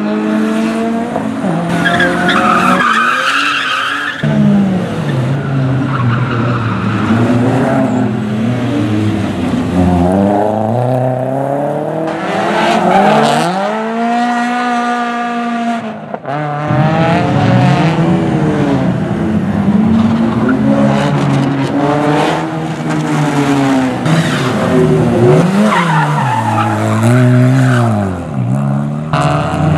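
Rally car engine revving hard, its pitch climbing and dropping again and again through gear changes and corners, with tyre squeal about two seconds in.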